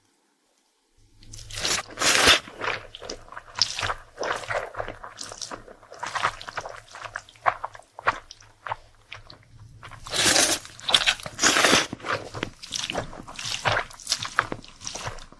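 Close-miked crunching and chewing of crisp food, likely fried dumplings or yellow pickled radish: irregular crunchy bites. They begin about a second in, with the loudest stretches about two seconds in and again around ten to twelve seconds.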